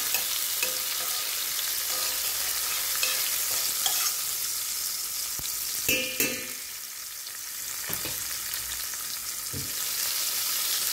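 Sliced onions, cumin seeds and garlic-ginger paste sizzling steadily in hot oil in a stainless steel pan. A spatula scrapes and clinks against the pan now and then as they are stirred, most noticeably about six seconds in.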